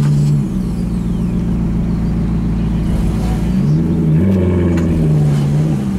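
Alfa Romeo 8C Spider's V8 engine running at low speed, then revving up a little past halfway, holding, and dropping back near the end.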